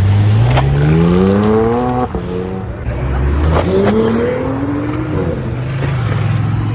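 A performance vehicle engine is revved twice. Each time the pitch climbs for a second or two, then drops back sharply. After the second rev it settles to a steady idle.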